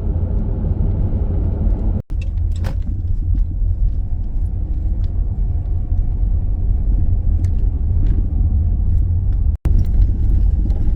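Steady low road and engine rumble of a Dodge Grand Caravan minivan heard inside the cabin while driving, with two very brief dropouts to silence about two seconds and nine and a half seconds in.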